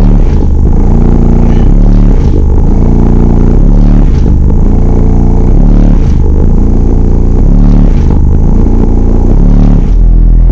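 Homemade car-audio subwoofer in an enclosure tuned to 32 Hz playing bass-heavy music very loud. A deep bass line repeats in phrases about two seconds long.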